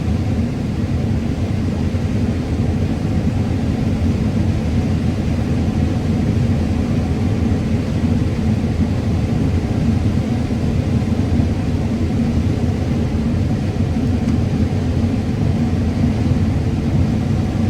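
Combine harvester running steadily while harvesting corn: an even, unbroken low drone.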